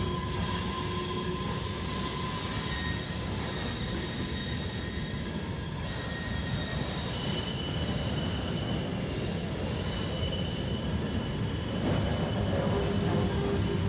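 Freight cars of a long CSX mixed freight train rolling past close by: a steady rumble of steel wheels on rail, with thin high squeals from the wheels that come and go.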